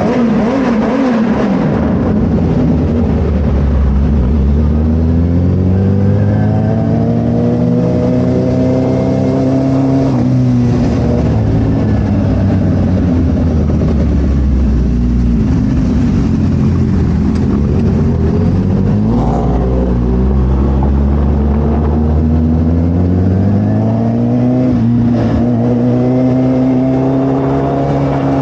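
Suzuki Hayabusa's inline-four engine running through a Brocks carbon full exhaust on the move. The engine note climbs steadily under acceleration, drops off about ten seconds in and sinks lower, then climbs again, with a brief dip near the end.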